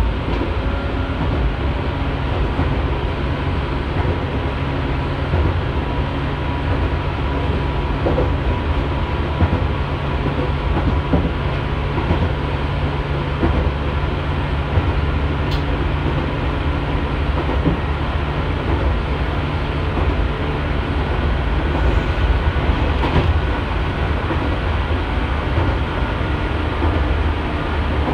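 JNR 115 series electric train running steadily along the line, heard from inside the rear cab: continuous wheel-on-rail rumble with a few faint clicks.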